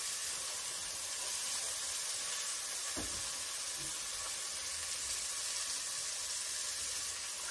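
Steady sizzle of garlic, herbs and pancetta frying in a Dutch oven as hand-crushed San Marzano tomatoes go in, with a soft knock about three seconds in.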